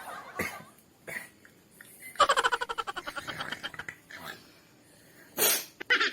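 A person laughing in a quick run of giggles, then a single short, forceful burst of breath, a sneeze, about five and a half seconds in, followed by the start of more laughter.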